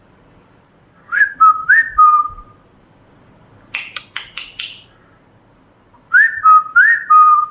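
The same short whistled phrase given twice, a few seconds apart: two quick rising notes, each settling onto a steady lower tone. Between the two phrases comes a brief cluster of sharp, scratchy sounds.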